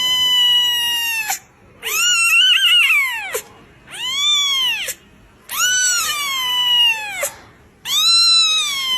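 A cat meowing over and over in long, drawn-out meows, each rising then falling in pitch, with short pauses between them. Four full meows, then a fifth begins near the end.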